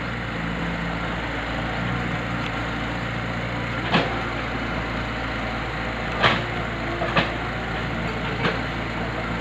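An engine running steadily with a low hum, and five sharp knocks spread over the second half.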